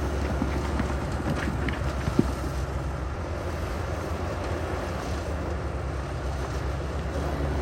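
Heavy diesel earthmoving machinery running steadily with a low rumble, with wind on the microphone. A single sharp knock sounds about two seconds in.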